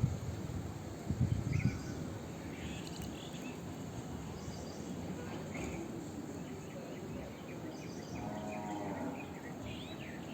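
Birds chirping in short, scattered calls over a steady background hiss, with a low rumble near the start.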